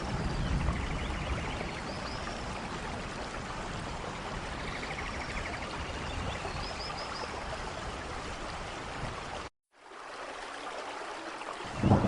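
Steady rain with water running, with a few faint high chirps over it. About nine and a half seconds in it cuts out abruptly, comes back quieter and thinner, and a loud low rumble starts at the very end.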